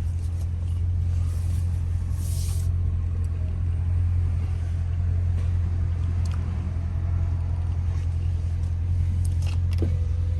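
Dodge Challenger Scat Pack's 6.4-litre HEMI V8 idling, a steady low rumble.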